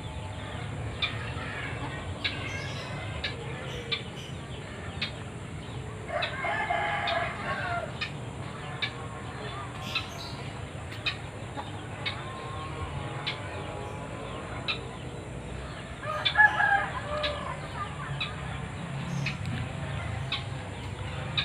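A bird calls loudly twice, once about six seconds in and again about sixteen seconds in, over faint ticking about once a second.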